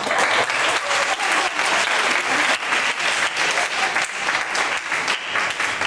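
Audience applauding: many people clapping together, starting right at the welcome and dying away at the end.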